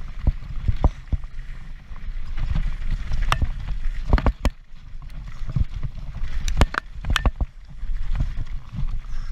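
Transition Patrol full-suspension mountain bike clattering and rattling down a rough race descent. Sharp knocks and clicks come in quick clusters over a constant low rumble.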